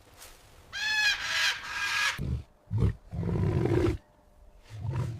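A big cat roaring and growling in several deep, rumbling pulses, after a shorter, higher wavering animal call about a second in.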